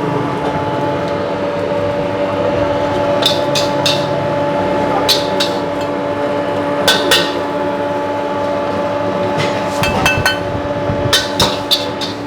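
Metal spatula clanking against a wok in quick clusters of strikes while fried rice is stir-fried, over a steady hum.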